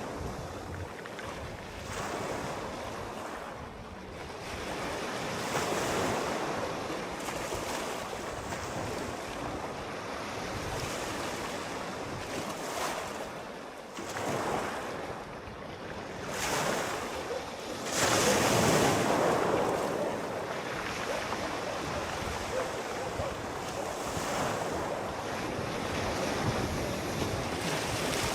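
Sea waves breaking and washing on the shore, rising and falling every few seconds, with the biggest surge about two thirds of the way in; wind rushes over the microphone.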